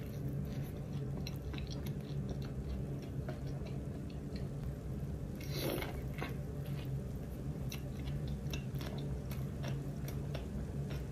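Close-up eating sounds: a burger is bitten into and chewed, with many small mouth clicks. There are two bigger bites, one at the start and one about five and a half seconds in, over a steady low hum.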